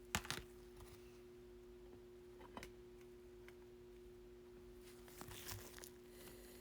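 Quiet handling of trading cards and their packaging: a couple of sharp clicks just after the start, a small click midway and a soft rustle about five seconds in, over a faint steady hum.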